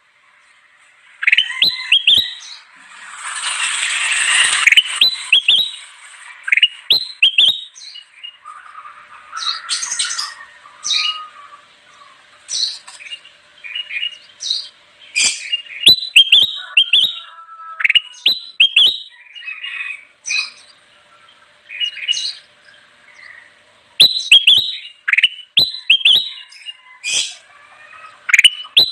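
A kutilang emas (bulbul) singing energetically: rapid, repeated short whistled notes and phrases with brief pauses between them, and a harsher, rasping stretch a few seconds in.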